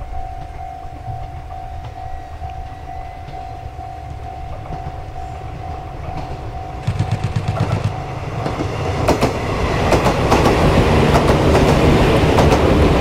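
A train approaching and passing close, its wheels clicking over rail joints in a quickening run that grows louder from about halfway through. Before that there is a steady background tone.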